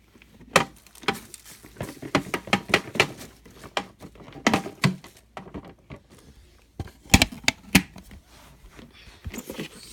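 Irregular sharp plastic clicks, knocks and taps from a Hoover vacuum's dust container being unlatched, opened and emptied, with the loudest knocks about seven to eight seconds in.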